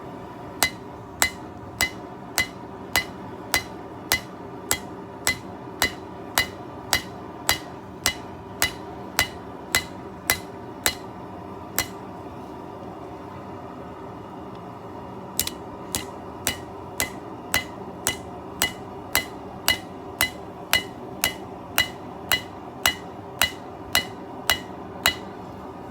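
Hand hammer striking a hot steel knife blank on an anvil in an even rhythm, a bit under two blows a second, each blow ringing. The blows stop for about three seconds midway and then resume at the same pace, over a steady background noise.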